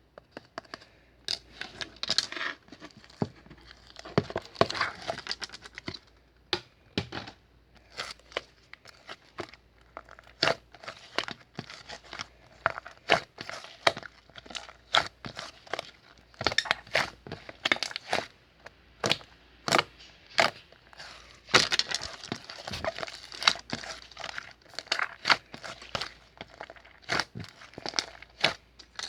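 Slime being squeezed and pressed by hand, giving irregular sharp clicking pops from trapped air over a crackly, squishy rustle. Some pops come singly and others in quick runs.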